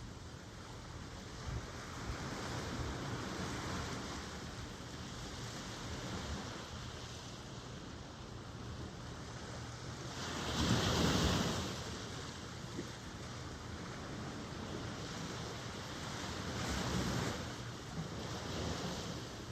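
Ocean surf: waves washing in against a steady background rush, one wave breaking louder about halfway through and smaller ones near the end, with some wind buffeting the microphone.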